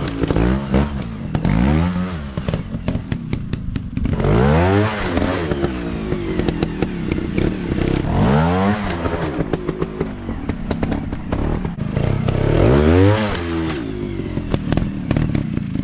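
Single-cylinder four-stroke trail dirt bike engine revving up and down again and again, its pitch swelling and falling every few seconds, with scattered clattering knocks over it.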